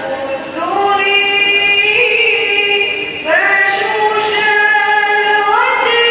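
A high voice sings an Islamic devotional nasheed, a Mawlid qasida, with no instruments. It holds long notes and slides up into new ones about half a second, three seconds and five and a half seconds in.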